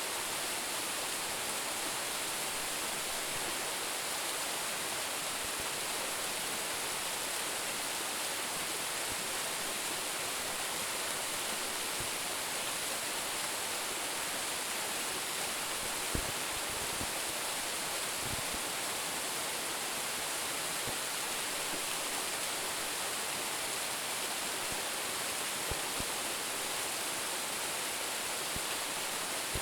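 Steady rush of a waterfall: Roumon Falls, a branching fall with a drop of about 10 metres, pouring without a break. A few faint low knocks come through, the clearest about 16 seconds in.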